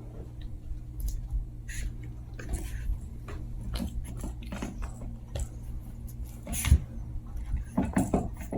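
Two Chihuahua puppies playing: a run of short, irregular scuffling and mouthing noises over a steady low hum, with a louder sharp sound nearly seven seconds in and a quick cluster of them near the end.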